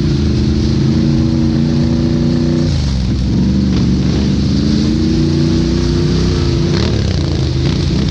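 Can-Am 1000 ATV's V-twin engine, running through an aftermarket RJWC exhaust, held at high revs. The revs fall off about three seconds in, climb again, and ease off near the end.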